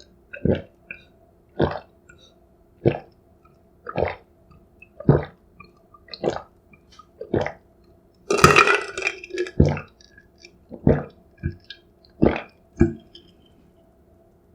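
Close-miked swallowing gulps, about one a second, with one longer, louder throaty sound just past the middle.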